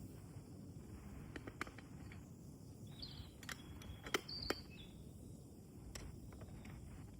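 Outdoor ambience: a steady low rumble like wind on the microphone, a few sharp clicks, and two or three short high bird chirps about three and four and a half seconds in.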